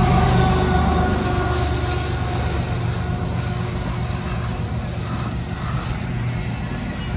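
Norfolk Southern diesel freight locomotives passing close by. Their low engine rumble slowly fades as they move off, and boxcars roll past on the rails.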